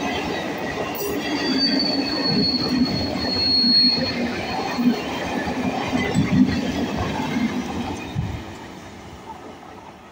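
Eastern Railway electric multiple-unit (EMU) local train passing close at speed, its wheels rumbling and clattering over the rails. A steady high wheel squeal comes in about a second in and lasts about three seconds. The noise fades away after about eight seconds.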